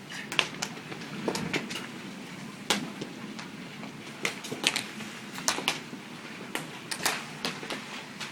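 Large hailstones striking hard surfaces: loud, irregular sharp cracks and thuds, a few a second at times and with gaps of a second or more at others, over a steady low background noise.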